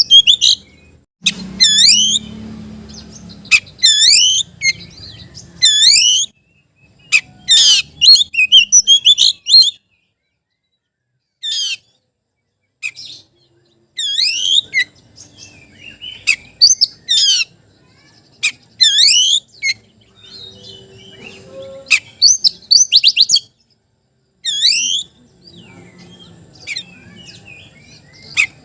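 Oriental magpie-robin (kacer) singing its challenge call to a rival: loud, clear whistled notes that dip and rise in pitch, delivered in short repeated phrases with pauses between them, including a silent gap of a few seconds about ten seconds in.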